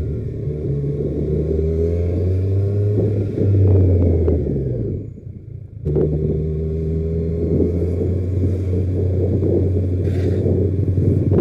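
Kawasaki Z1000R's inline-four engine running while riding, its revs rising as it accelerates, then again after a brief dropout about five seconds in.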